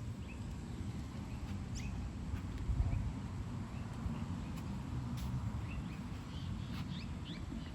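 Scattered faint bird chirps over a low, uneven rumbling background noise.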